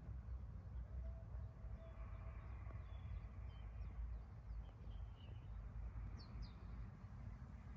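Quiet outdoor ambience: a low, uneven rumble with a few faint, short bird chirps in the middle.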